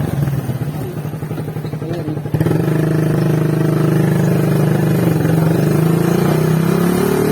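Motorcycle engine running under way, dropping to a lower, pulsing note for the first two seconds or so, then picking back up to a steady, louder drone.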